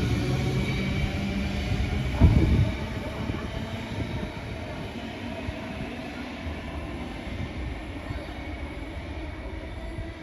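Electric suburban train running on the track: wheel rumble and a motor whine fade away steadily. There is one loud clunk about two seconds in.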